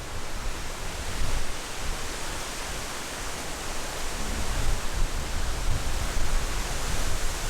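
Strong wind: a steady rushing hiss with gusts buffeting the microphone as an uneven low rumble that swells and fades several times.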